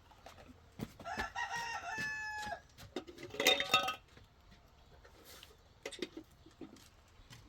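A rooster crowing: one long call about a second in, then a shorter, louder call around three and a half seconds in.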